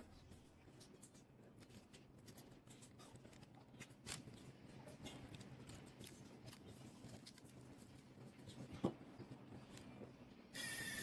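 Faint, scattered clicks and ticks of small hand tools working on a phone, with one sharper click about nine seconds in. Music comes in just before the end.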